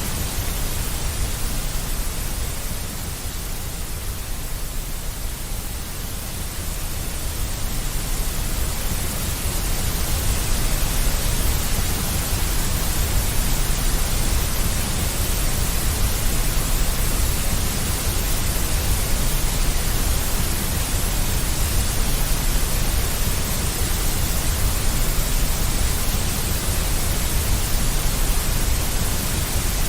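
Steady deep white noise, a continuous hiss heaviest in the low rumble, dipping slightly a few seconds in and then holding even.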